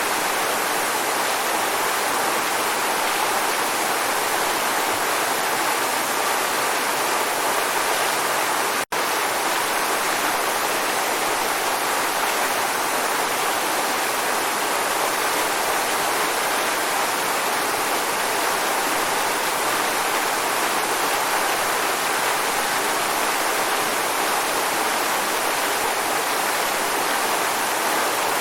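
Waterfall: a steady, even rush of falling water, with a split-second dropout about nine seconds in.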